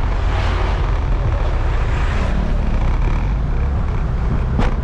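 Scooter ride heard with wind rushing over the microphone, the engine and tyres beneath it. Near the end comes one sharp knock: the scooter's suspension bottoming out over a bump.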